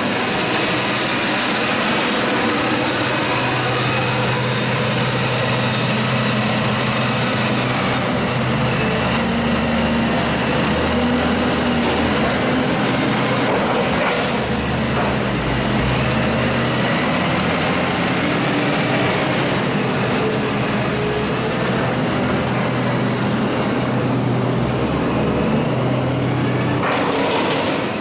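Heavy farm machinery running steadily: a continuous engine drone with a high whine that drifts slightly in pitch.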